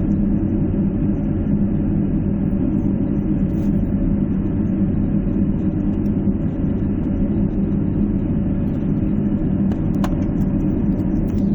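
Steady low rumble with a constant hum inside an airliner cabin on the ground after landing, from the jet engines running at idle and the cabin air system. A faint click about ten seconds in.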